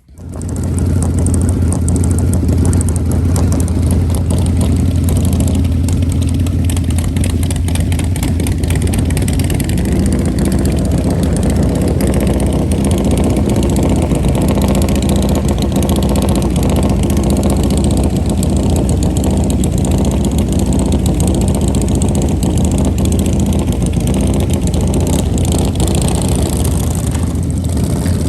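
Loud engine running steadily at an even pitch, setting in abruptly at the start and holding without revving up or down.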